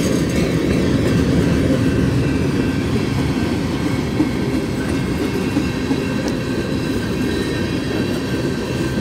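Union Pacific train rolling past, a steady low rumble without a break.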